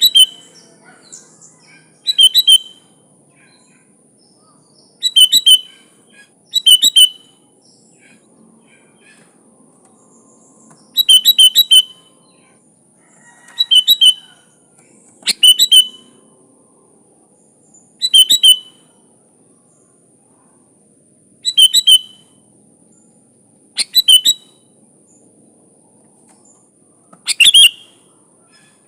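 Sooty-headed bulbul singing: short, loud phrases of a few quick liquid notes, repeated about every two to four seconds with brief pauses between.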